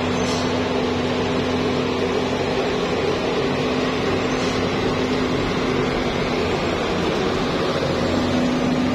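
Heavy truck engine running at a steady pitch under an even hiss of road and wind noise.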